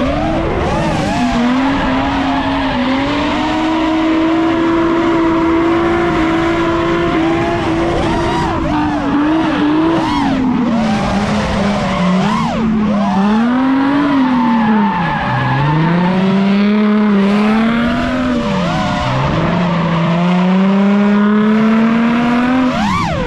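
Nissan 350Z drift car's V6 engine held high in the revs, its pitch sagging and climbing again several times as the throttle is worked, with tyres squealing and skidding as the car slides.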